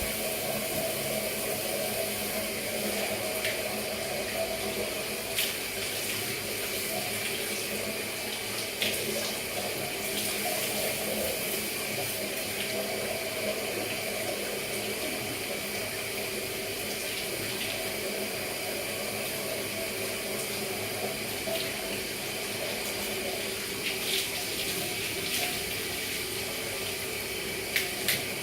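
Shower running, a steady rush of spraying and falling water, with a few brief knocks or splashes.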